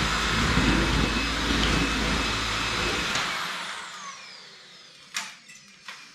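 LG CordZero A9 cordless stick vacuum running steadily, then switched off about three seconds in, its motor whine falling as it spins down. A few light clicks follow near the end. It is running normally after its parts were washed.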